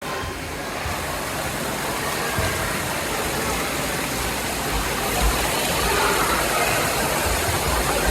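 Steady rushing noise of water falling from a pool waterfall, with occasional low rumbles underneath.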